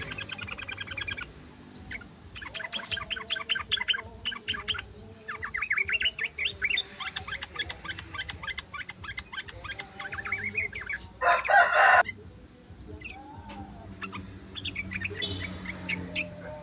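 Yellow-vented bulbul (trucukan) chattering song: rapid runs of short, quick notes in bursts with brief pauses. About eleven seconds in, a loud harsh call lasting under a second cuts across it.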